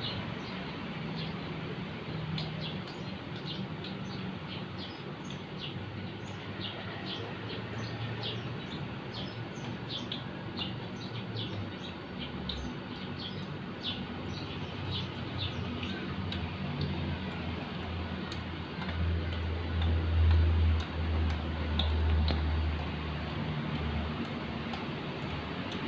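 Small birds chirping, with many short high chirps a second that thin out in the later part, over a steady low hum. A louder low rumble swells and fades about three-quarters of the way through.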